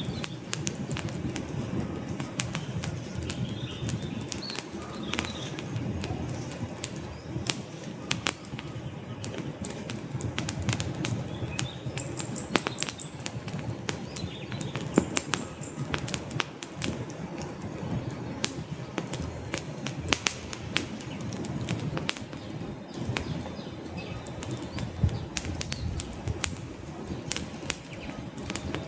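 Wood fire burning in a fireplace: dense, irregular crackles and pops from the logs over a steady low rumble of flames.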